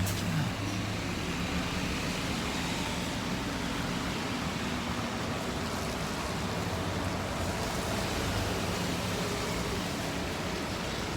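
Steady wash of city street traffic in the rain: engines running and tyres hissing on a wet road, with a low engine hum near the start.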